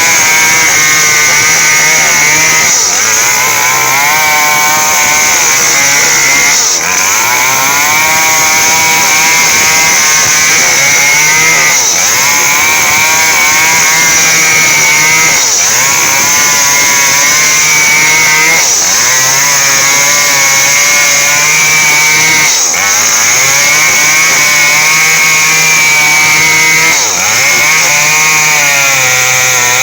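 Small Stihl chainsaw cutting lengthwise through a coconut palm trunk, running continuously at high revs. Its pitch dips briefly and climbs back about every three to four seconds as the chain bogs in the cut and recovers.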